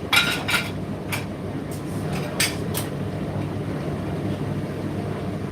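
Indesit IDC8T3 condenser tumble dryer running mid-cycle, a steady hum with a few sharp clicks in the first three seconds.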